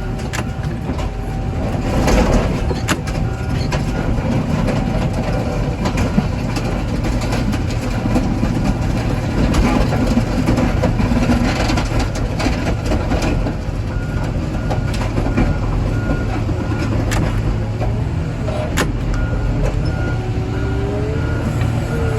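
Heavy diesel machinery running steadily under load, with scattered sharp metal knocks as a scrapped vehicle is crushed.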